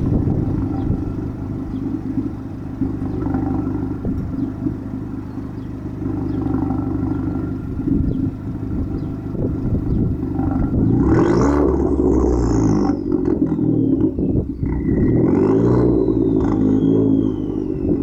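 Alfa Romeo MiTo 1.4 turbo engine through a full high-flow Supersprint cat-back exhaust, idling steadily, then revved repeatedly from about ten seconds in, the pitch rising and falling with each blip. A high whistle sweeps up and down with the revs.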